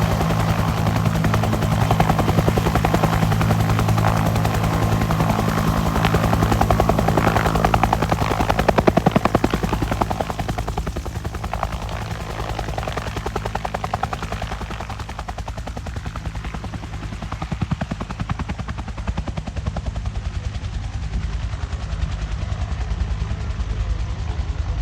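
Bell UH-1 Huey helicopter in flight, its turbine running steadily under the rapid, even beat of its two-bladed main rotor. It is loudest for the first ten seconds or so, then somewhat quieter as it draws away.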